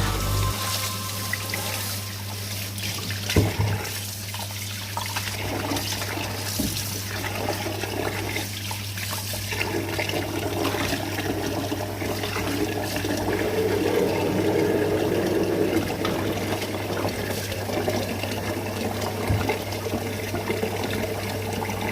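Water running and splashing steadily as raw chicken is rinsed after a soak in salt, vinegar and lemon. There is a single knock about three seconds in.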